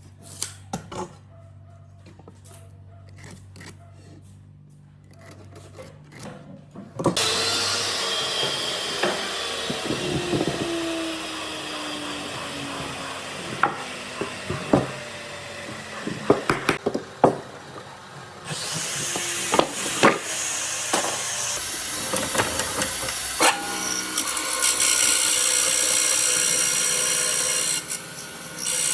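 Power tool working wood. A few light taps and clicks come first. About seven seconds in, the tool starts and runs with a falling pitch as it works the wood, and it grows louder and hissier from about two-thirds of the way through until shortly before the end.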